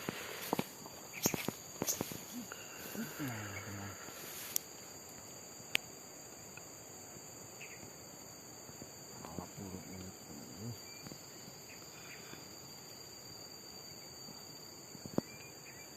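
Steady high-pitched drone of an insect chorus. Several sharp clicks and snaps fall in the first few seconds.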